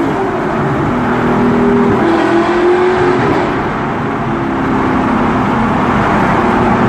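Audi R8 engine through a Tubi aftermarket exhaust, loud. Its pitch climbs about two seconds in, drops back a little after three seconds, then runs steadily.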